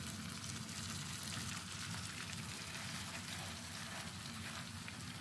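Chapli kebab patties sizzling steadily in hot oil in a ridged grill pan.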